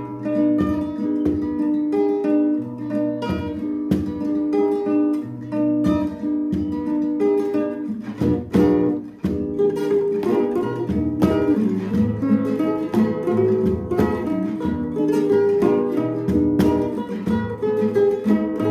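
Acoustic guitar music: a plucked melody over picked chords, played at a steady, moderate level.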